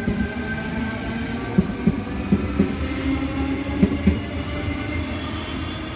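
Tangara double-deck electric train pulling out of the station: a low rumble with a steady electric whine, broken by a few sharp clunks in the first few seconds.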